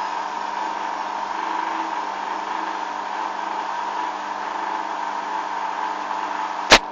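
Hoover washing machine running steadily on its final spin, a constant motor hum with a held whine, then one sharp click near the end.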